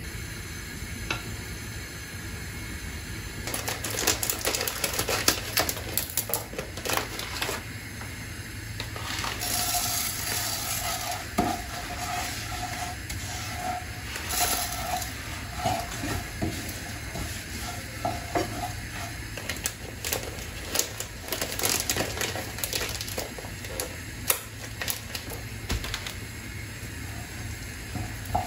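Food sizzling in a frying pan while a utensil stirs and scrapes it, with clinks and knocks of pans and cutlery. In the middle, a repeated scraping note comes from the utensil moving in the pan.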